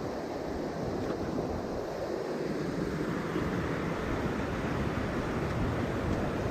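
Steady rush of river water flowing over rocks, with wind buffeting the microphone in low, uneven gusts.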